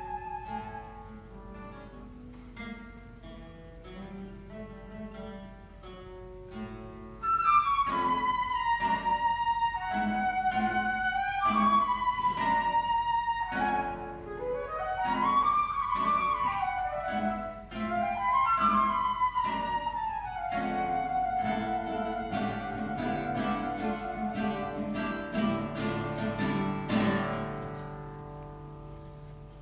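Flute and guitar duo playing a contemporary classical piece. After a held flute note fades, the guitar plucks softly alone; about a quarter of the way in the flute enters loudly with a sweeping melodic line that slides up and down over the guitar, and the music fades near the end.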